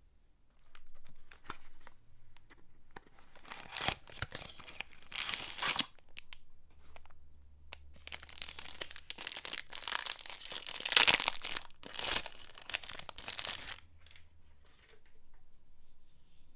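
Soap packaging being torn open and crinkled by hand: a dense run of tearing and rustling that grows heavier midway, then dies down near the end.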